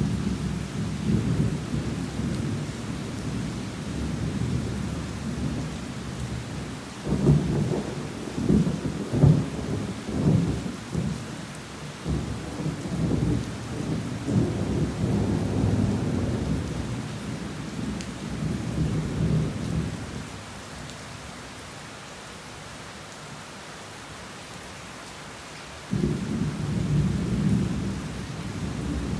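Heavy rain falling steadily while thunder rolls and rumbles, with a run of louder peals about 7 to 11 seconds in. The thunder dies away about two-thirds of the way through, leaving only the rain, then another rumble starts suddenly near the end.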